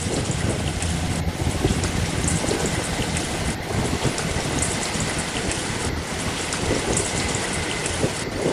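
Class 158 diesel multiple unit pulling out, its steady low engine drone fading over the first few seconds, under a constant hiss.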